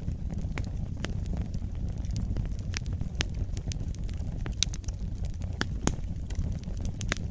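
Wood fire burning in a fireplace: a steady low rumble of the flames with irregular crackles and sharp pops, a few of them louder.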